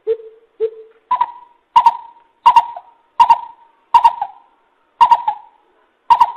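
Greater coucal calling: a series of about nine deep hooting notes, a little more than one a second. The first two notes are lower, and the rest step up in pitch and grow louder. It is the kind of call used on a decoy recording to lure coucals for trapping.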